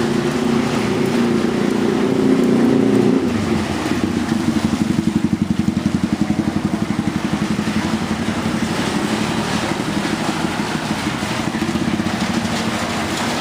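Street traffic: motorbike and car engines running. A steady engine drone gives way about three seconds in to a rapid, even pulsing, like a motorbike engine close by.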